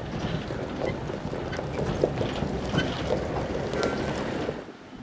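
Hitachi Zaxis 490LCH excavator at work, its engine running under a din of scattered knocks and clatter from rock and earth being handled. The noise eases off about four and a half seconds in.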